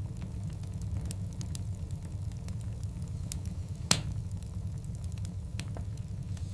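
Burning wood logs crackling, with scattered small snaps over a steady low rumble. One loud, sharp pop comes about four seconds in.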